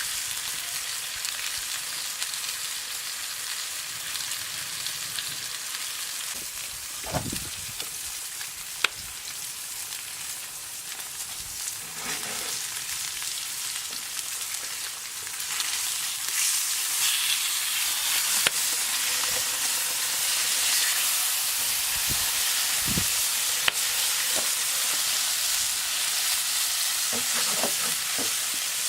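Bacon and eggs frying in a pan over a campfire, a continuous sizzle that grows louder about halfway through, with a few sharp clicks and soft knocks.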